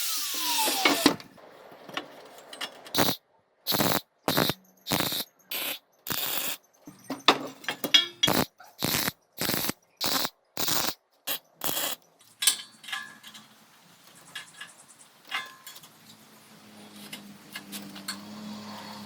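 A power tool winding down with a falling whine. Then a quick run of about a dozen short bursts of workshop tool noise, each cut off abruptly, followed by quieter scattered knocks and a faint low hum.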